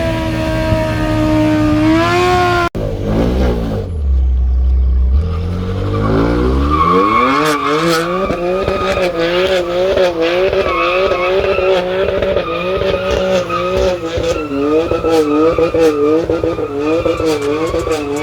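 Car engine revving hard, held at high revs, then after a sudden break the revs fall and climb back up. From about seven seconds in they are held high with a wavering pitch, typical of a burnout with tyres squealing. Sharp crackles grow more frequent toward the end.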